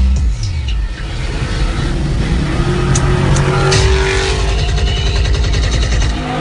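Car engine revving hard through a burnout, with the tyres spinning; the pitch climbs partway through.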